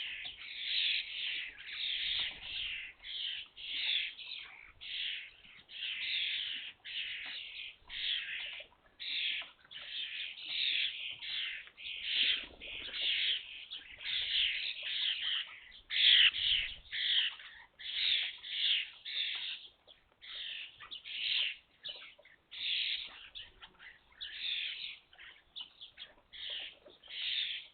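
Young common starlings calling over and over at a feeder, short calls following one another about one or two a second.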